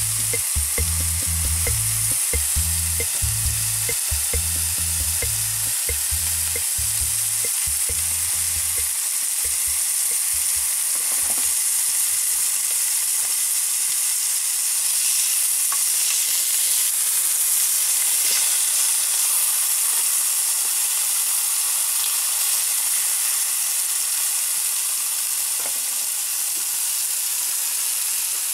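Chicken breast and aubergine slices sizzling steadily in a ceramic grill pan, dry-grilling with almost no oil.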